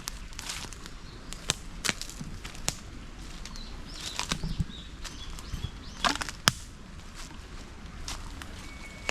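Footsteps on a forest path, with twigs and dry litter snapping underfoot in irregular sharp cracks. The loudest snaps come about six seconds in.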